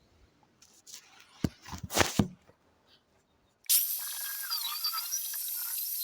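A few knocks and handling clatter, then a little over halfway in an angle grinder starts cutting iron: a steady high hiss with a whine that wavers and dips as the disc bites.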